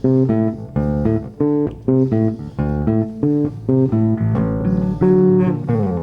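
Live band playing an instrumental passage: a steady run of plucked guitar notes over a bass line.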